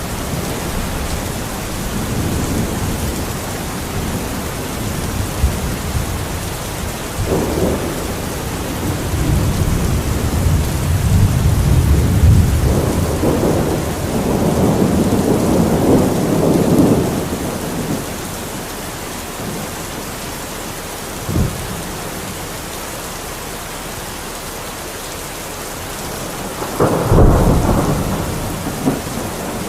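Steady heavy rain with thunder: low rolling rumbles swell and fade through the first half, a short sharp crack comes about two-thirds of the way in, and a louder clap with rumble follows near the end.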